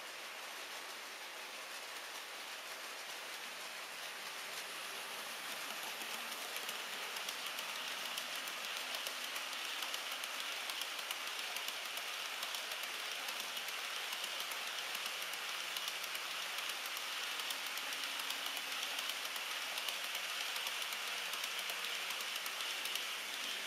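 HO-gauge model freight train of Taki 1000 tank wagons rolling on track: a steady hiss of wheels full of fine rapid clicks, growing louder over the first several seconds as it comes closer, then holding steady.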